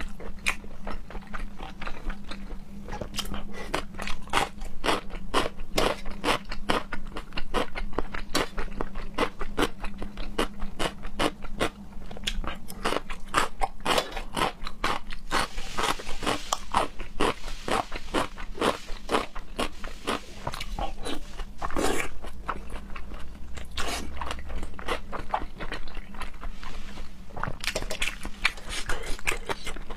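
A person chewing and biting food close to the microphone: a dense run of wet, crunchy chewing clicks many times a second, with a few short pauses.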